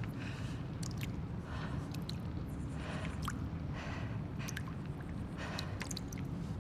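Abandoned-building ambience: a steady low rumble with scattered sharp ticks and short rustling, dripping sounds every second or so.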